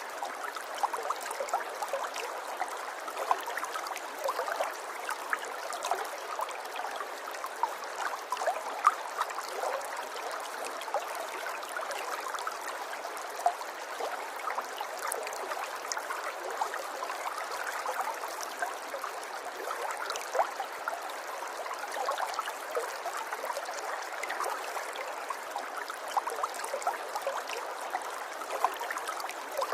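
A river stream running steadily over stones, with a constant babble and many small splashes and trickles.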